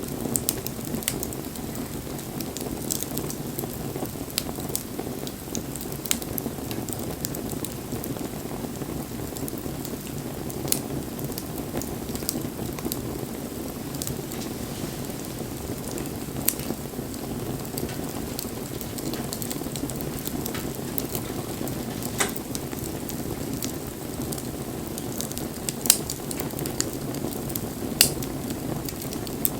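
Wood bonfire burning: a steady low rush of flames with scattered sharp crackles and pops, two of them louder near the end.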